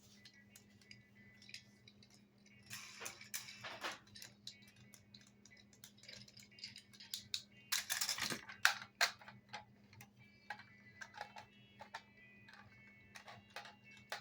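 Plastic toy construction vehicles being handled: scattered clicks and rattles, with two louder scraping rustles about three and eight seconds in, over a steady low hum.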